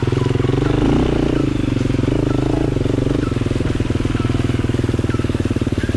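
Dirt bike engine running at low, steady revs, its firing pulses even throughout.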